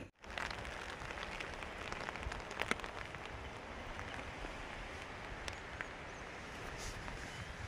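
Steady rain falling, with scattered drops ticking sharply now and then.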